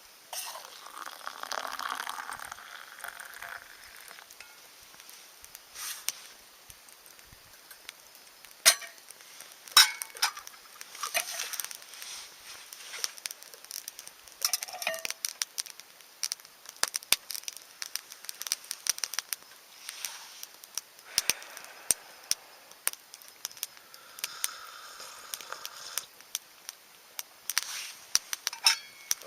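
Wood campfire crackling, with irregular sharp pops scattered throughout and a few light clinks.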